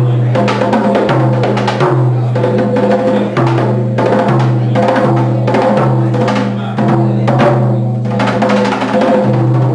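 Live drum music: fast, dense drum strikes over sustained low bass notes that step from pitch to pitch about every second.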